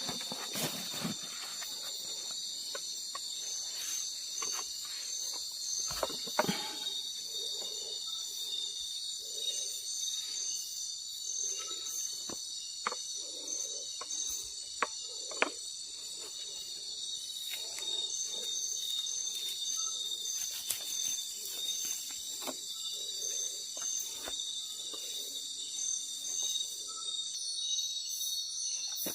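A steady, high, shrill night chorus of insects such as crickets, with soft low pulses about once a second through the middle and scattered short clicks and knocks.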